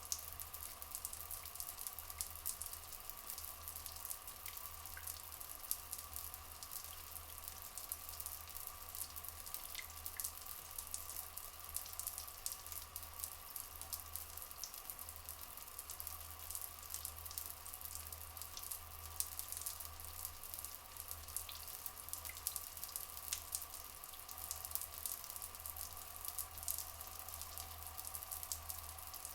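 Trickling stream water, a steady stream of small drips and splashes, with a few faint short bird chirps.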